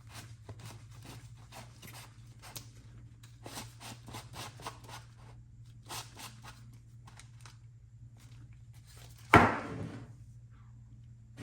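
Workshop handwork: a run of light scratches and taps over a steady low hum, then one sharp, loud knock about nine seconds in and another right at the end.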